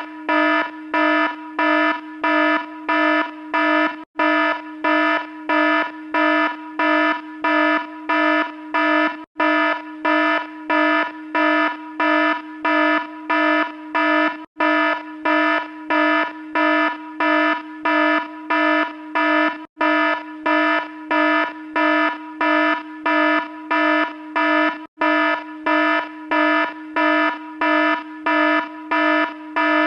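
Electronic alarm buzzer sounding in steady, even pulses, about two a second, on one fixed buzzy pitch. A brief break comes about every five seconds where the short sound-effect clip loops.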